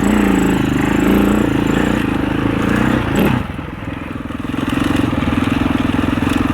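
Husaberg 650 enduro dirt bike's single-cylinder four-stroke engine running under way. The revs rise and fall, dip about three seconds in, then hold fairly steady.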